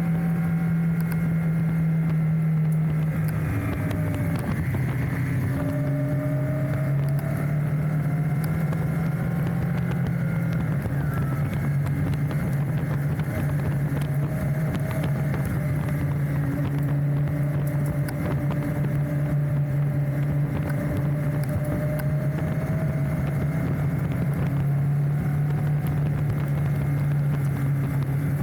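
Enduro motorcycle engine running at a steady riding pace on a gravel road. Its drone shifts down and back up between two pitches a few times as the revs change.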